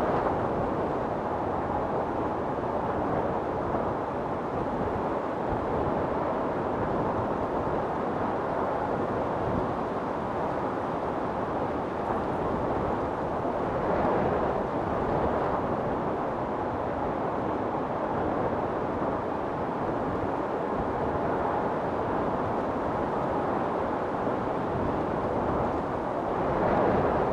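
Strong storm wind blowing steadily, with gusts swelling about halfway through and again near the end.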